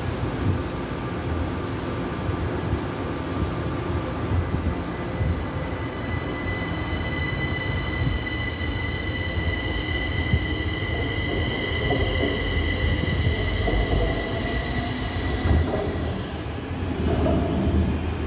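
Kaohsiung Metro Red Line train running, with a steady rumble and a high whine of several tones that sets in about four seconds in and fades out about sixteen seconds in.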